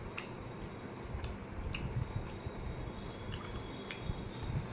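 A person eating fried rice close to the microphone: soft chewing and wet mouth sounds with scattered small clicks.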